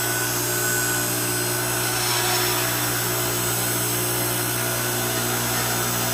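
Vertical electric log splitter running steadily with a constant motor hum as its splitting ram is driven down by the two-handed lever controls.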